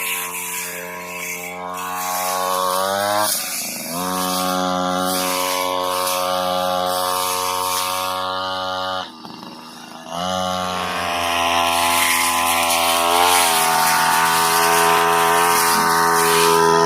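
Brush cutter's small petrol engine running hard, its pitch rising, then dropping briefly twice as the throttle is eased off, about three seconds in and again near the middle, before climbing back up.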